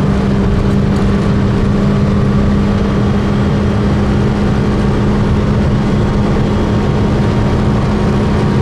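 Honda Civic EK3's D15Z6 1.5-litre four-cylinder engine heard from inside the cabin, running at high, steady revs as the car holds a high speed, with dense road and wind noise underneath. The engine note stays level throughout, with no gear change.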